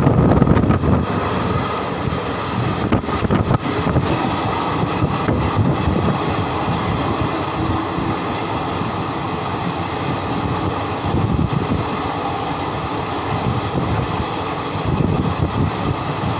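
Passenger train running along the track, heard from on board: a steady rumble and rattle with a few sharp clicks, and wind buffeting the microphone, strongest in the first second.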